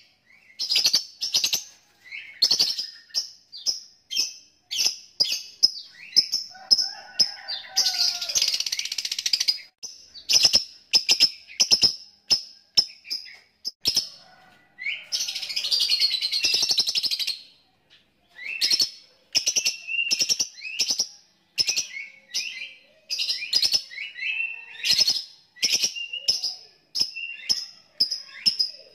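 Lovebird calling in a rapid series of short, sharp chirps and clicks (the 'ngetik' call), broken twice by a long continuous chattering trill (the 'ngekek' call): once about eight seconds in and again about fifteen seconds in, each lasting two to three seconds.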